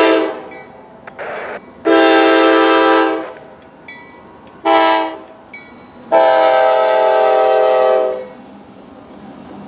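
Locomotive multi-note air horn sounding the grade-crossing signal: the end of a long blast, then long, short, long, with several notes sounding together in each blast.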